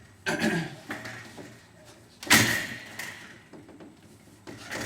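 Window sash being shifted sideways and worked out of its frame, sliding and knocking against the track, with one loud clunk a little over two seconds in and smaller knocks near the end.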